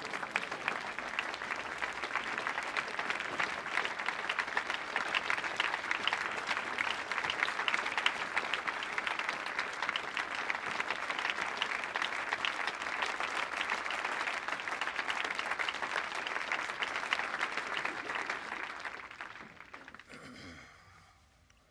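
Large crowd applauding, a dense steady clatter of many hands clapping that dies away near the end.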